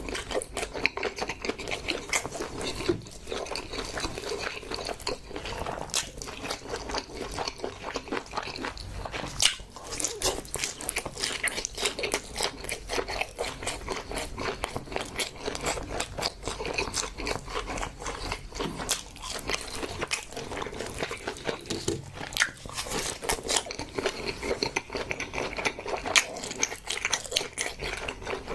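A person chewing and biting food close to the microphone: a dense, continuous run of small mouth clicks and bites.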